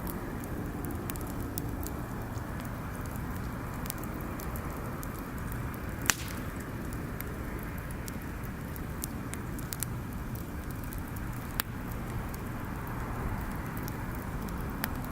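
Wood bonfire crackling, with scattered small pops and a sharp, louder pop about six seconds in and another just before twelve seconds, over a steady low rumble.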